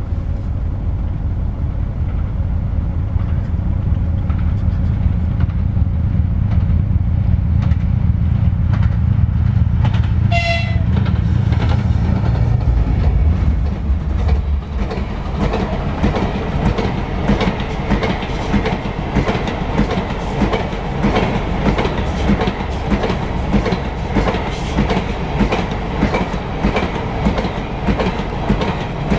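Diesel-hauled Talgo passenger train passing: a low locomotive rumble swells as it nears, with a short horn blast about ten seconds in. After the locomotive goes by, the low articulated coaches pass with a steady, rhythmic clatter of wheels on the rails.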